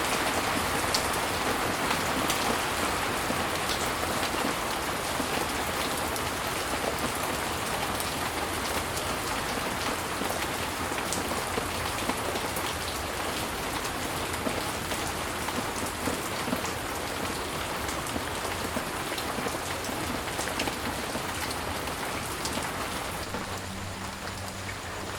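Steady heavy rain falling in a tropical rainforest, a dense even hiss with many individual drops ticking through it, easing slightly near the end.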